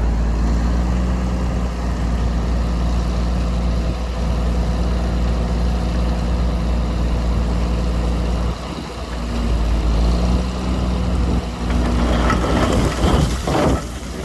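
Heavy diesel engine of a construction machine running steadily at a low, even speed, with rough clattering near the end.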